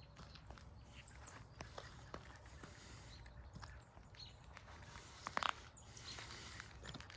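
Faint footsteps with scattered light clicks from someone walking outdoors. A brief, louder chirp-like sound comes about five and a half seconds in.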